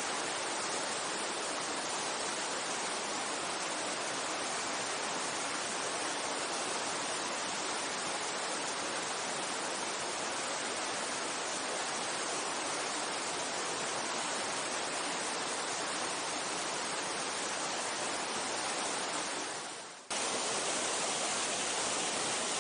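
Mountain stream running, a steady rush of water. It fades briefly about twenty seconds in and cuts straight back in.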